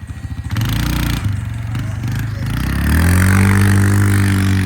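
Motorcycle engine idling with an even putter, then revved about half a second in, its pitch climbing and held high until it drops back near the end.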